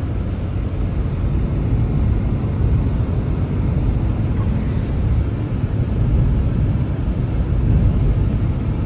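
Blizzard wind blowing as a steady, low rumble that rises and falls slightly.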